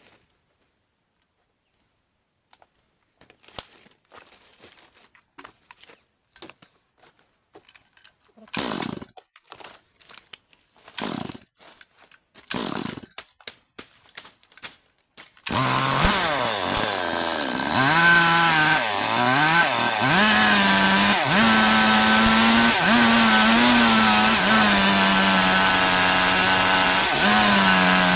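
Scattered knocks and scrapes of wood being handled, then about halfway in a Stihl MS 382 two-stroke chainsaw comes in abruptly at high revs and keeps running, its pitch wavering and then holding with small dips as it cuts through the log.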